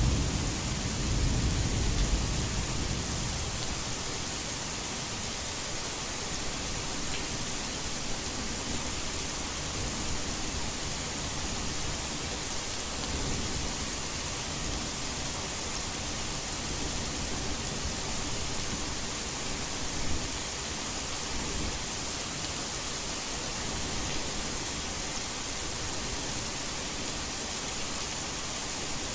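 Heavy rain falling as a steady, dense hiss, with a low thunder rumble dying away in the first few seconds.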